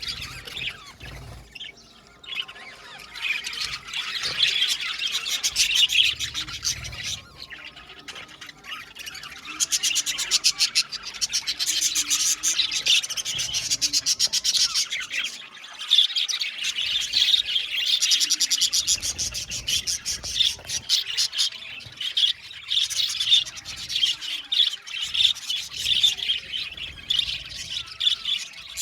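Budgerigars chattering and chirping, many quick high calls overlapping into a continuous chatter after a sparser first couple of seconds.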